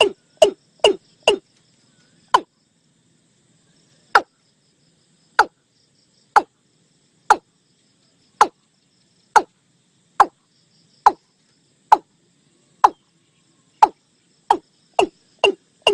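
Bird call of the nok ee-klung (as it is called in Thai), a series of short, sharp notes, each sweeping quickly down in pitch. The notes come about two a second at first, slow to about one a second, then quicken again near the end.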